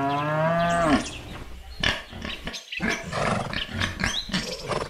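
A cow's moo, one long call that rises and then falls in pitch and ends about a second in. After it comes a jumble of short clicks and high chirps.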